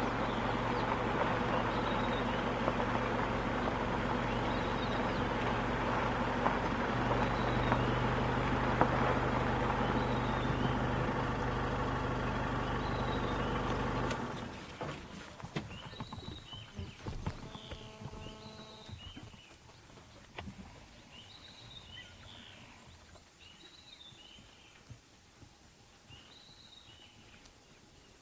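A vehicle engine runs steadily, then is switched off about halfway through. Afterwards the air is quieter, with scattered short high chirping calls.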